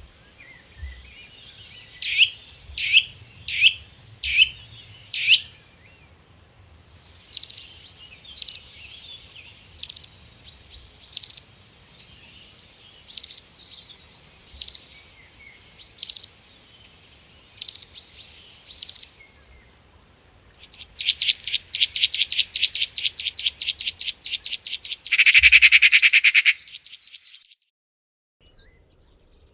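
Songbirds calling in three separate passages. First come about five quick sweeping whistled notes, then sharp high notes repeated roughly every second and a half over softer chatter. Last is a fast rapid trill that ends in a louder buzzy burst.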